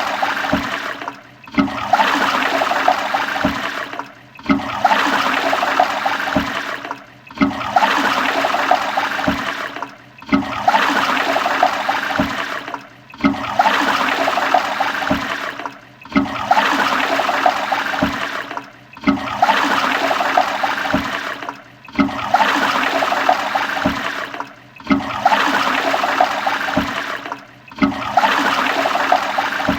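Toilet flushing: rushing water swirling down the bowl. The same flush of about three seconds is repeated over and over, each one starting suddenly and cut off by a short gap.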